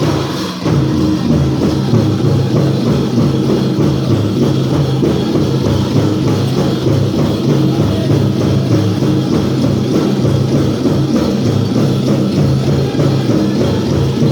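Powwow drum group singing a chicken dance song: men's voices in unison over a large drum struck in a steady beat.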